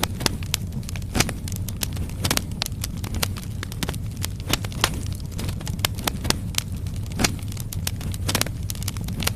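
Firewood logs burning in a fireplace, crackling and popping with sharp irregular snaps, several a second at times, over a steady low rumble of the fire.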